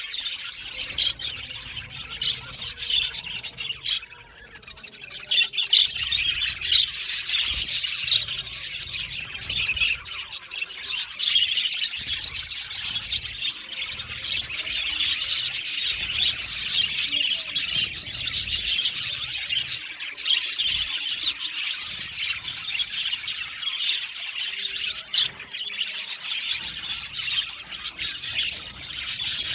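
A flock of budgerigars chirping and warbling continuously, many birds calling over one another, with a brief lull about four seconds in.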